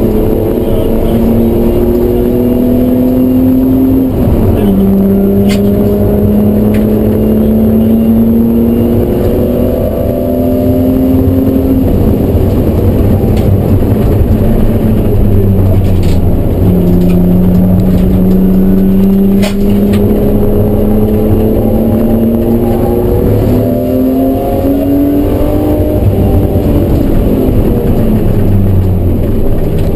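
BMW E36 M3's straight-six engine, heard from inside the car's cabin, pulling hard under load. Its note climbs slowly through each gear and drops sharply at gear changes, about four seconds in and again around twelve and sixteen seconds. Near the end the note falls away in several steps as the car slows.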